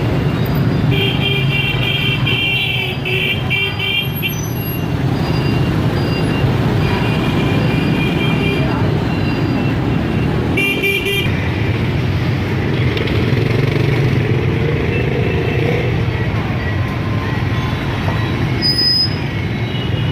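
Dense motorbike street traffic: many small engines running steadily, with horns beeping in short repeated toots about a second in, again around seven to nine seconds, and once more around eleven seconds.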